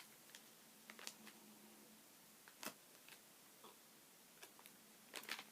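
Near silence with a few faint, scattered clicks, more of them just before the end.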